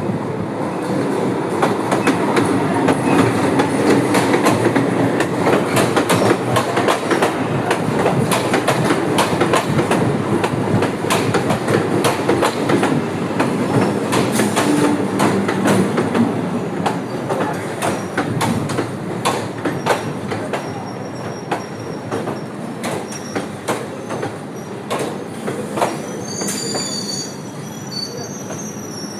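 Electric suburban local train pulling into the platform: loud running noise with rapid clicks of the wheels over the rail joints. It eases off toward the end, as high wheel squeals start in the last few seconds while it slows.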